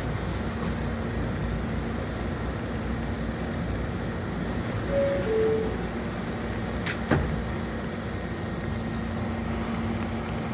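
New York City subway train standing at the platform with a steady hum and rumble. About five seconds in, its two-tone descending door chime sounds. About two seconds after the chime, a sharp knock is heard, typical of the doors shutting before departure.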